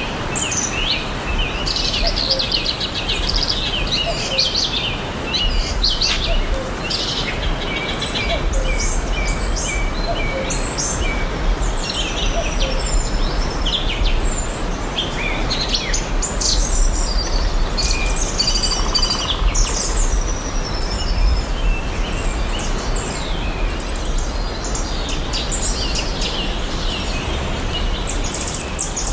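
Several songbirds chirping and trilling, many short calls overlapping, over a steady background hiss and low rumble.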